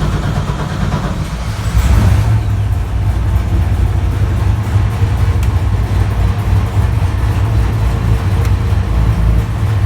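Turbocharged LS V8 in a NASCAR stock car running steadily just after starting, a deep, loud engine note that steps up slightly about two seconds in. One spark plug boot is not seated on its plug, which the mechanic takes for the probable cause of it running a little rough.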